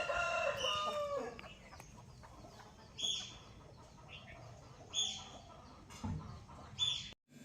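Aseel game chicken calling: a drawn-out call falling in pitch at the start, then three short high calls about two seconds apart.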